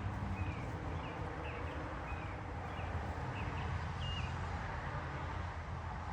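Small blackbird giving a steady series of short, high chirp calls, a little under two a second, over steady outdoor background noise.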